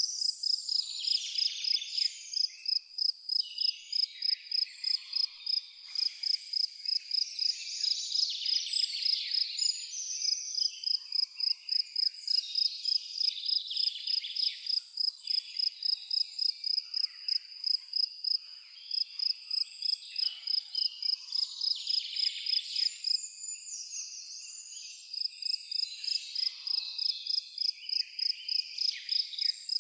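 Insects chirping: one high-pitched chirp repeating steadily about three times a second, breaking off briefly near the middle and again about three quarters of the way through, over a background of other scattered chirps and trills.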